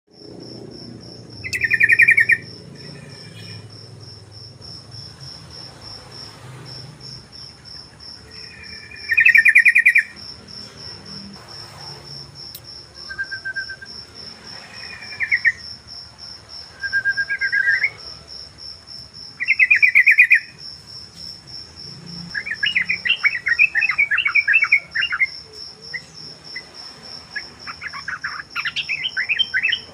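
Yellow-vented bulbul (trucukan) singing short loud phrases every few seconds, turning into quicker runs of notes in the second half. Under the song runs a steady, evenly pulsed high insect trill, like a cricket.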